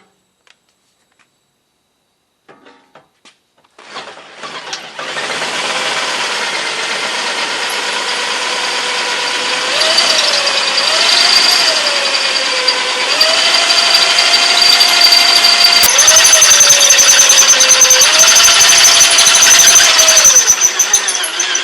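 Electric drill boring a hole through a metal skid plate, starting about four seconds in and running loud, its motor pitch dipping and recovering several times as the bit bites, with a high steady whine over it.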